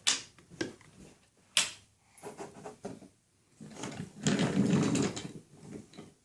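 Sharp knocks and clicks of plastic toy train pieces being handled, three in the first two seconds, then a louder, rougher noise lasting about a second.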